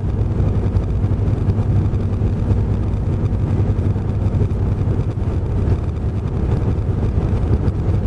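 Semi truck running down the road: a steady low engine drone mixed with road noise.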